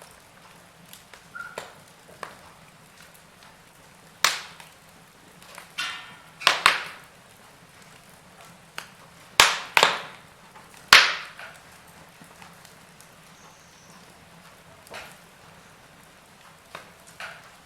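Wood fire crackling in a fireplace: faint scattered crackles, with a handful of sharp, loud pops in the middle, the loudest about eleven seconds in.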